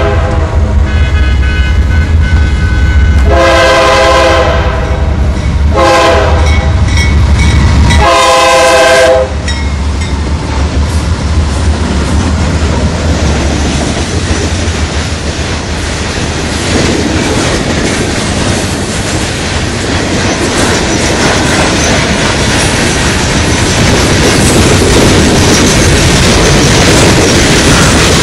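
Norfolk Southern train horn sounding several blasts over the locomotive's low engine rumble as it goes by. About eight seconds in, the engine sound drops away, and the rest is the cars rolling past with wheel clatter.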